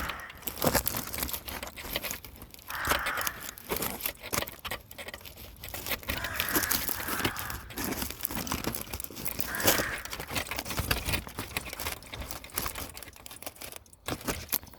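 Crows cawing now and then, about five calls, over continual crinkling and crackling.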